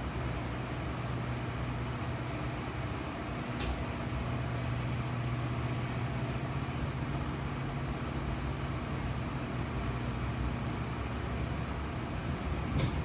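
Metra BNSF commuter train running at speed, heard from on board: a steady rumble with a low hum. Two sharp clicks cut through, one a few seconds in and one near the end.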